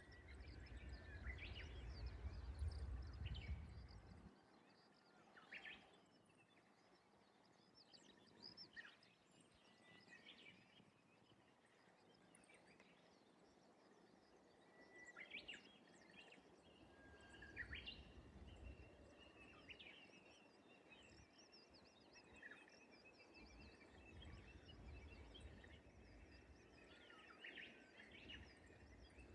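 Faint birdsong: scattered short chirps and calls from several small birds. A low rumble is loudest for the first four seconds and returns faintly later.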